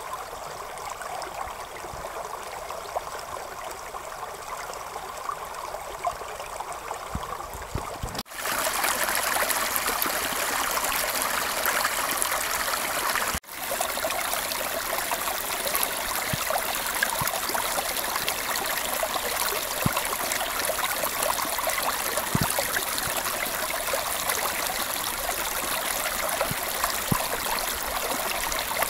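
Creek water flowing steadily. About eight seconds in the sound cuts to louder, brighter rushing water, and it briefly drops out once more a few seconds later.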